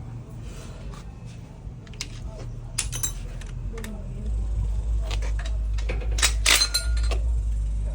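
Metal parts and tools clinking and clanking as they are handled, with two louder bursts of ringing clanks about three seconds in and again around six and a half seconds. A low rumble comes in about halfway through.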